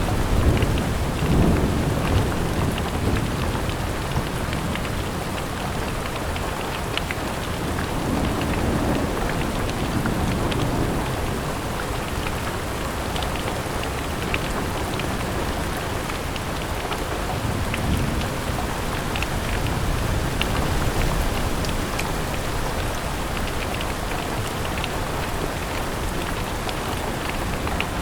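Steady rain against a window, with many small drops ticking through a constant hiss. Low rumbles of distant thunder swell up a few times: near the start, around the middle, and again about two-thirds of the way through.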